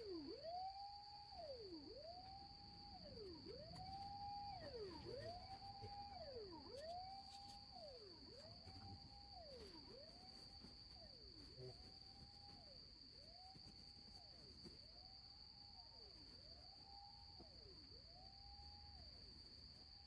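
Faint repeating tone, held high and then gliding down, about every one and a third seconds and slowly fading, over a steady high-pitched whine.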